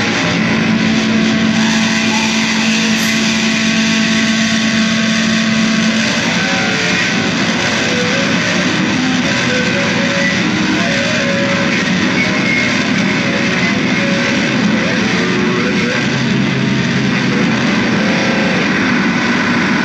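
Loud, dense noise music built on distorted electric guitar: a continuous wash of noise with a few held notes, one low note sustained for the first six seconds or so.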